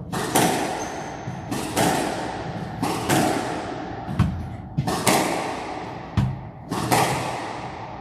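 Squash ball being hit back and forth: sharp racket strikes and the ball smacking the court walls, often in quick pairs about every second, each one echoing in the court.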